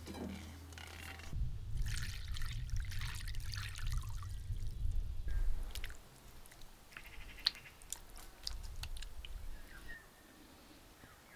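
Liquid being poured for a few seconds, followed by scattered light clicks and knocks.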